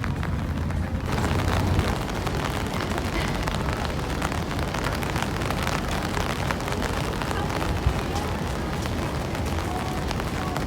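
Heavy rain falling, a dense patter of many close drop hits over a low rumble; the patter brightens about a second in.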